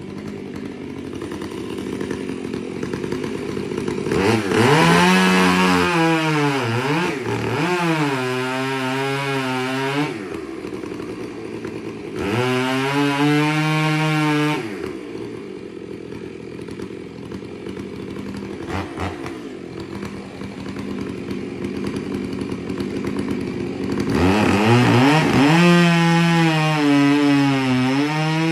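Two-stroke chainsaw idling and then opened up to full throttle three times, the engine pitch sagging and recovering as the chain bites into a large tree trunk under load.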